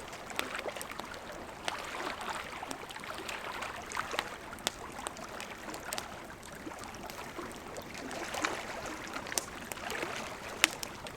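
Wood campfire crackling with scattered sharp pops over the steady rush of a river. The loudest pop comes near the end.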